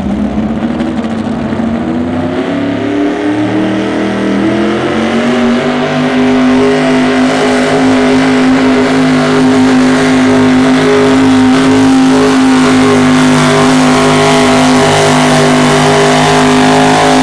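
Loud engine of a truck- or tractor-pulling vehicle under full load. The revs climb over the first six seconds or so, then hold steady at high rpm.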